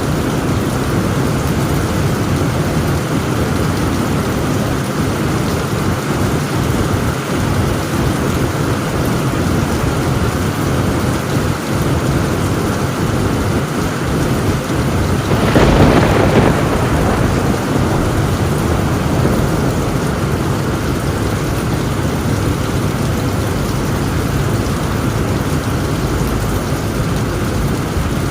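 Heavy rain pounding steadily on a tin roof, with one thunderclap a little past halfway, the loudest moment, that fades over about a second and a half.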